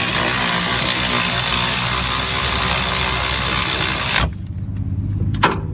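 Power ratchet running a brake caliper bracket bolt in, a loud steady whirring hiss that stops suddenly about four seconds in. A single sharp click follows near the end.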